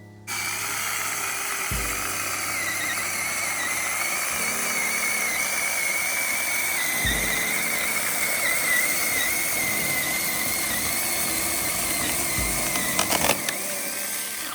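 Chainsaw running flat out and cutting through a thick branch, a steady high whine that wavers slightly, with a crackle of clicks near the end.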